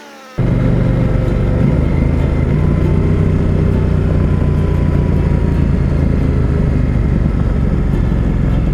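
KTM 890 Adventure Rally's parallel-twin engine running steadily at road speed on a dirt road, mixed with steady wind noise. The sound cuts in abruptly just after the start.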